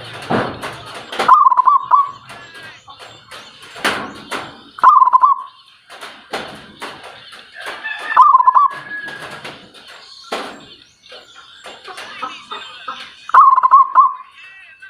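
A bird giving a short warbling call four times, each under a second and a few seconds apart. Many short clicks and chirps sound around the calls.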